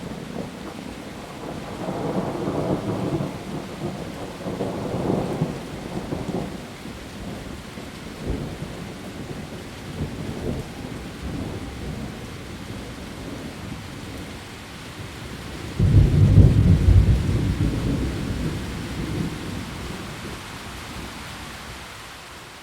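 Steady heavy rain falling on leaves, with rolls of thunder: low rumbles a couple of seconds in and again around five seconds, then a loud, sudden thunderclap about sixteen seconds in that rumbles away over the following seconds.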